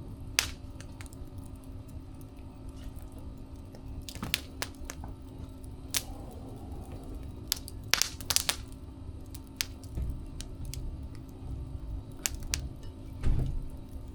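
Wood fire crackling, with irregular sharp pops and snaps over a low rumble and a steady low hum.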